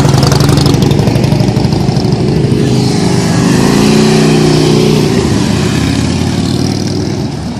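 Harley-Davidson police motorcycle's V-twin engine running close by, rising in pitch about three seconds in as it is revved and then easing off and fading near the end.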